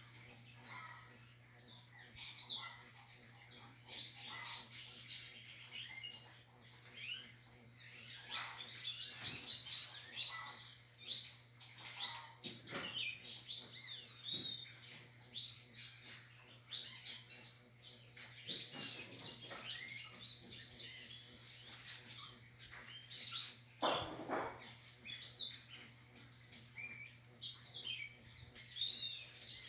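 Many small birds chirping and singing at once: a dense chorus of quick, overlapping whistled notes that slide up and down, over a steady low hum.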